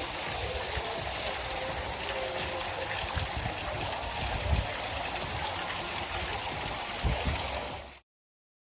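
Waterfall rushing steadily, with a few brief low thumps on the microphone. The sound cuts off suddenly near the end.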